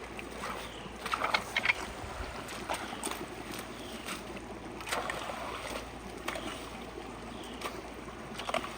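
Creek water running and splashing through a culvert that is being cleared of debris, with scattered sharp knocks and louder splashes, several just after a second in and again near the end.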